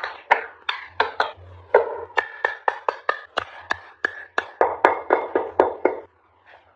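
A carving tool striking a solid block of Fujian hiba wood, a quick run of sharp wooden knocks about three a second that stops about six seconds in.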